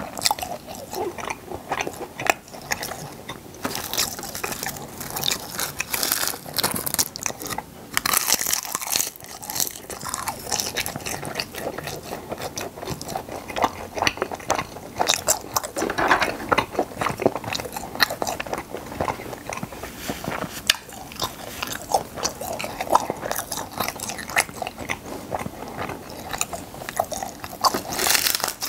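Close-miked chewing of half-dried fish (gwamegi) with raw vegetables: a steady run of wet, sticky mouth sounds with irregular crisp crunches.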